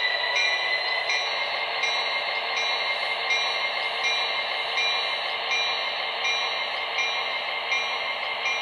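Factory sound file of an MTH HO-scale SD70ACe model diesel locomotive playing through the model's small onboard speaker. The simulated engine sound rises in pitch over the first second and then runs steady, with a short regular tick repeating about every three-quarters of a second.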